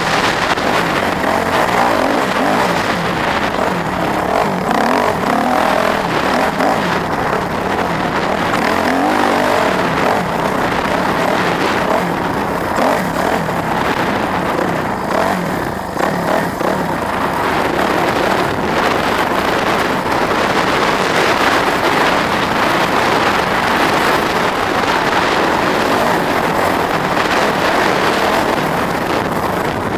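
A vehicle engine running, its pitch rising and falling in the first ten seconds or so, over a loud, steady rushing noise.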